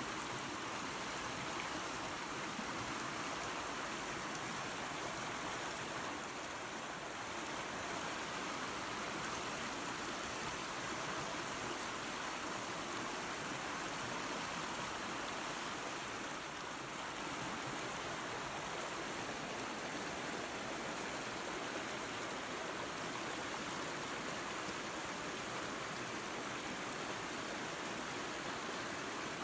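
Small waterfall spilling into a creek, a steady, even rush of running water.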